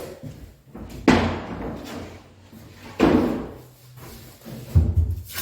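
Two sharp bangs about two seconds apart, each ringing off briefly, followed by a few low thuds near the end.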